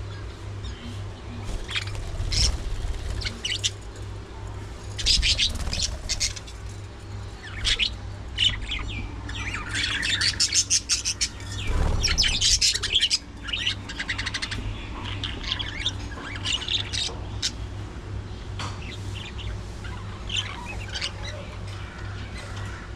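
A flock of budgerigars chirping and chattering, many short high calls overlapping in bursts, busiest in the middle. A steady low hum runs underneath.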